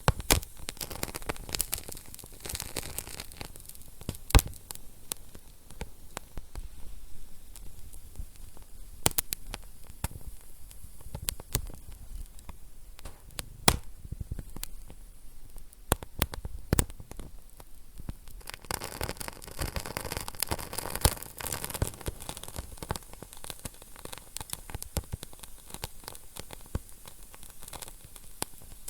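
Wood fire burning in a fireplace: irregular sharp crackles and pops over a low rumble and hiss, with a busier hissing flare-up about two-thirds of the way through.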